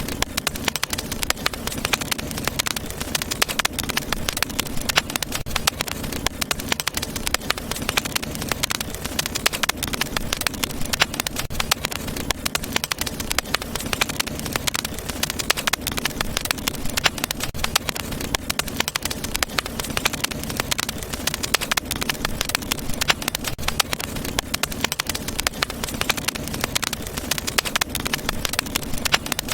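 Wood fire burning in a fireplace: a continuous stream of small irregular crackles and pops over a low, steady rush of flame.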